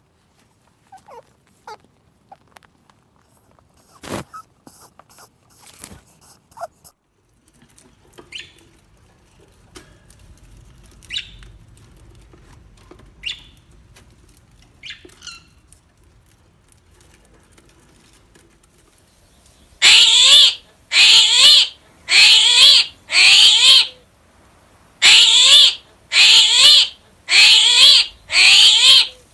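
Animal calls: scattered faint high squeaks and chirps, then from about two-thirds of the way in a run of eight loud, shrill calls, each falling in pitch, repeated about once a second.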